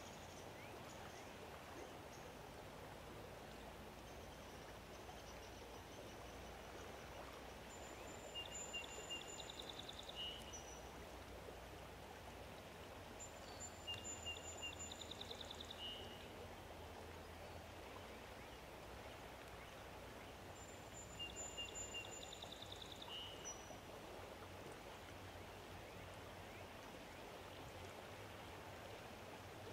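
A songbird singing the same short song three times, about every six to seven seconds: a few high notes running into a quick trill. Under it a steady faint hiss of outdoor ambience.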